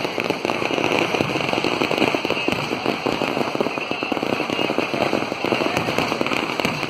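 A barrage of firecrackers going off in rapid, continuous succession, the sharp cracks packed too close to count.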